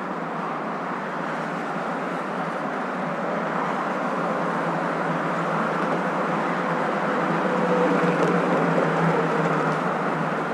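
Steady road-and-engine hum of a moving car, a continuous even rumble used as white noise. It swells slightly about three quarters of the way through, with a faint steady tone coming in.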